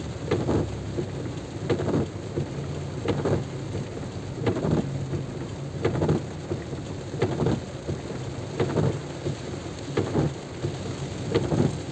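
Heavy rain, with a steady low hum underneath and a regular swish that swells about every second and a half.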